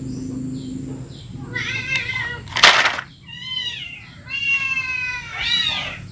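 Several high cries that rise and fall in pitch, one after another, with a short, loud, hiss-like burst about three seconds in. A low hum stops about a second in.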